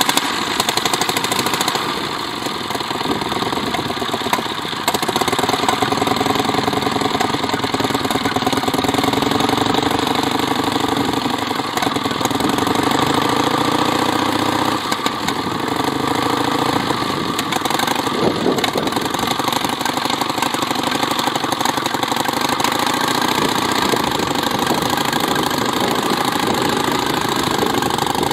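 1922 Matchless Model H's V-twin engine running steadily after being kick-started, then pulling the sidecar outfit away partway through.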